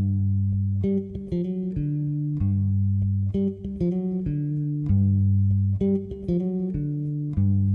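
Bass guitar playing a riff of plucked low notes on its own, the intro of a rock song.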